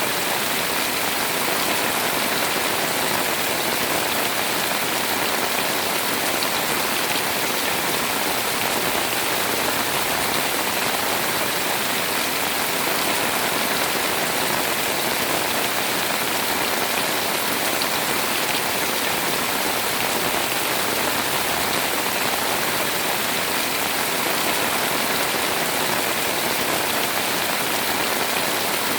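Heavy rain pouring steadily, a dense, even hiss of drops with no let-up.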